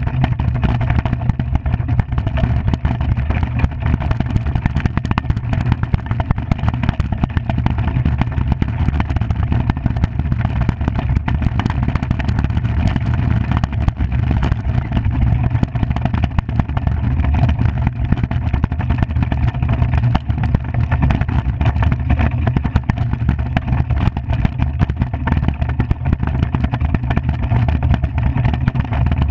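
Runners of a Skimmer iceboat rumbling and chattering over the ice under sail, a steady low rumble with a constant rattle.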